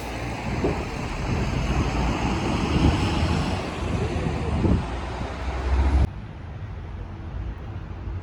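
Road traffic noise, vehicles passing with a low rumble, which cuts off suddenly about six seconds in to a quieter steady hum.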